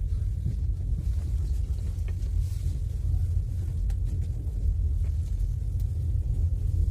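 Steady low rumble of a moving passenger railway carriage heard from inside, its wheels running on the rails, with a few faint clicks.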